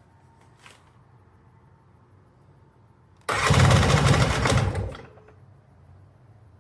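Electric starter cranking a Polaris Sportsman 400 ATV's two-stroke engine in one loud burst of rapid pulses lasting under two seconds, starting about three seconds in and then stopping.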